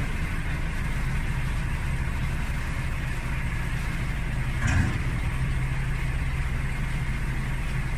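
A vehicle engine idling steadily, a low even hum, with one brief short sound a little past the middle.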